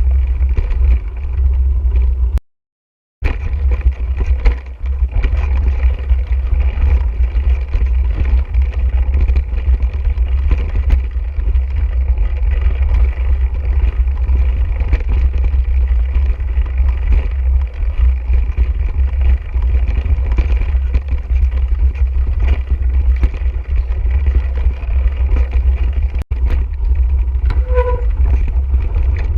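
Wind buffeting the microphone of a camera riding on a mountain bike, a loud steady rumble, with the bike clattering over a rough dirt trail. The sound cuts out completely for under a second about two and a half seconds in, and a brief tone sounds near the end.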